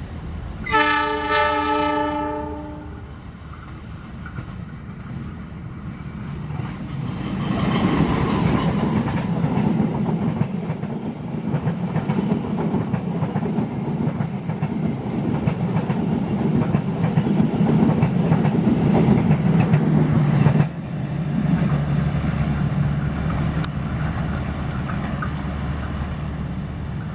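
Train horn blowing for about two seconds near the start, then the train passing close by with a rumble and wheels clattering over the rail joints. The passing sound drops off suddenly about twenty seconds in, leaving a lower rumble.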